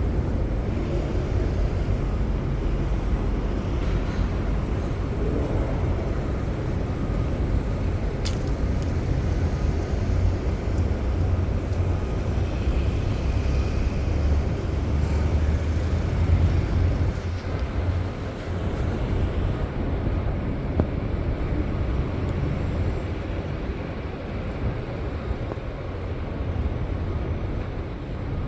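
City street traffic: a steady low rumble of passing cars and other motor vehicles, with a single sharp click about eight seconds in.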